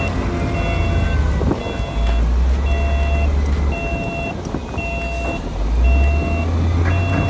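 Reversing alarm of a heavy construction machine beeping about once a second over the low rumble of its diesel engine, which swells and eases as the machine works.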